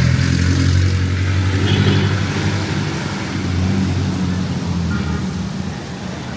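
A motor vehicle's engine running close by with a low, steady hum, loudest over the first few seconds and easing off as it moves away, over a hiss of street noise.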